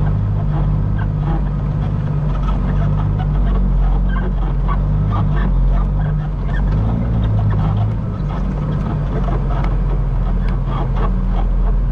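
Peterbilt semi truck's diesel engine running steadily at low speed, a deep even drone with a slight change in tone partway through.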